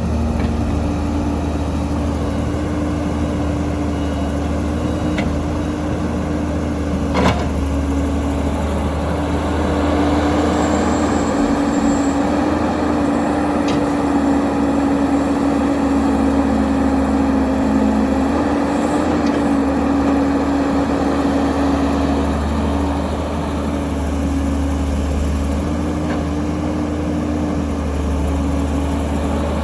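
Heavy diesel engines of an excavator and dump truck running steadily, with one sharp knock about seven seconds in.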